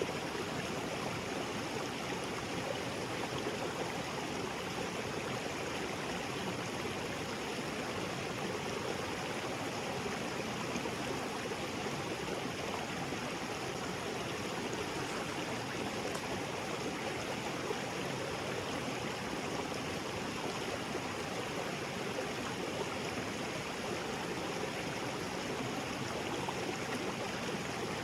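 Small waterfall splashing into a rocky creek: a steady, even rush of water.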